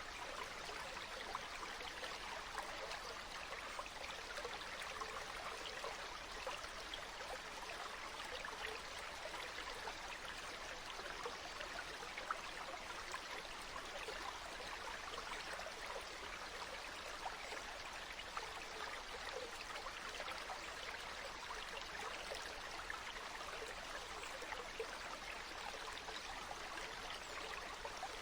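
Flowing water: a small stream or brook running over stones, a steady, even rush and babble.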